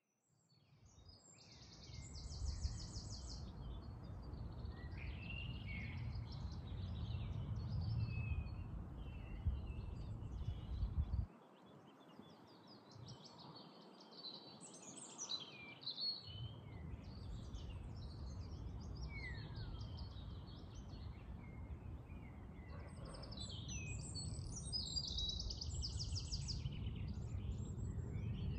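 Several songbirds singing and chirping, with quick trills and short whistles, over a low rumble that cuts out suddenly for a few seconds in the middle.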